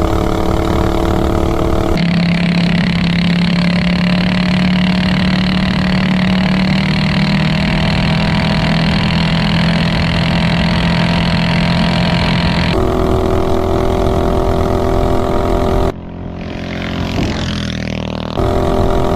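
Predator 420cc single-cylinder engine on a minibike with an open header pipe, running hard at steady high revs across several cut-together stretches. Near the end the sound briefly drops in level and sweeps up and down in pitch.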